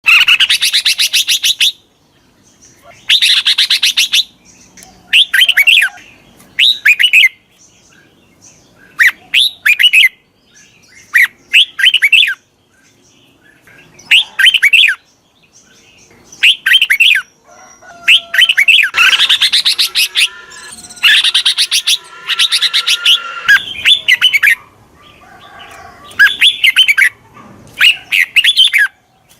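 Red-whiskered bulbul singing: short phrases of quick chirping notes, repeated every second or two with brief pauses between.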